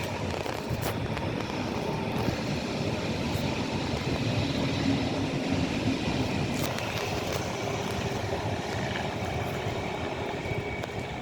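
A train running along the track: a steady rumble of wheels on rails with faint, steady whining tones and a few sharp clicks.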